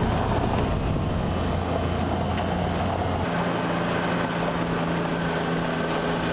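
Car driving, its engine and road noise a steady hum; the engine note changes pitch about three seconds in.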